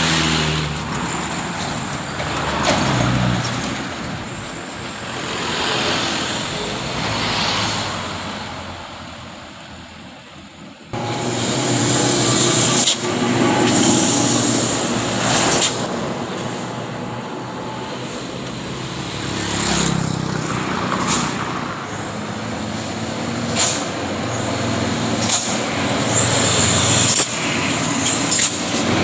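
Heavy diesel trucks running as they climb a steep hill, engines labouring under load. A series of short, high hisses comes near the end.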